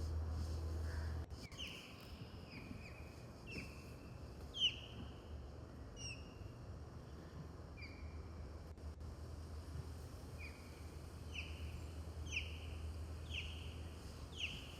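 Small birds calling, a series of short, sharply falling chirps repeated irregularly, about one a second. A low steady rumble stops suddenly about a second in.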